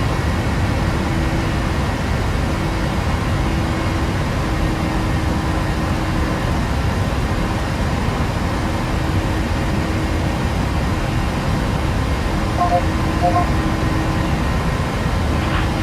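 Boeing 737-800 climbing out after takeoff: a steady rush of engine and airflow noise inside the aircraft. A faint hum cuts in and out, and two short tones sound near the end.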